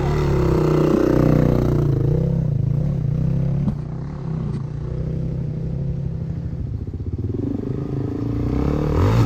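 Dirt bike engine running close by at low revs: a brief rise and fall in revs at the start, then a steady low chug, with a single light knock about four seconds in.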